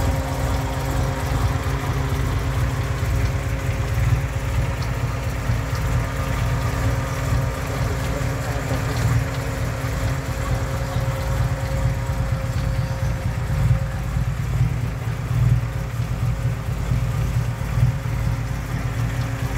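A 1996 Toyota Starlet's 1.3-litre fuel-injected four-cylinder engine idles steadily under the open bonnet. The seller judges it to be in very good, well-maintained condition.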